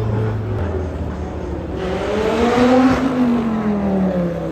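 A supercar passes at speed. Its engine note climbs as it approaches, is loudest about three seconds in, then drops in pitch as it goes by.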